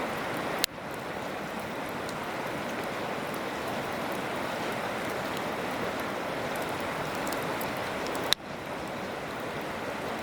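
Steady rush of flowing river water, with the faint crackle of a wood campfire and two sharp pops, one under a second in and one near the end.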